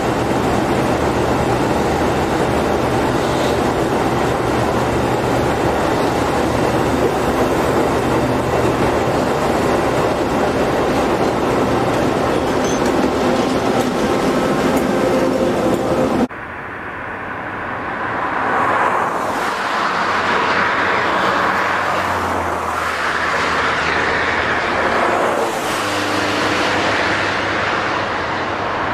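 Passenger train pulling out of the station, its carriages rolling away with a steady running noise and a low hum. About sixteen seconds in, the sound cuts abruptly to a freight train hauled by an EF class electric locomotive approaching, which grows louder over the next few seconds.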